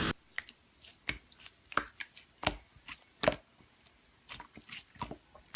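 Slime being handled by hand, giving irregular small sticky clicks and squishes.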